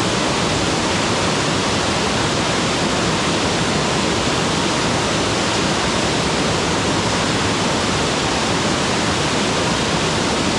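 Mountain waterfall: water falling and rushing in a steady, unbroken roar of noise.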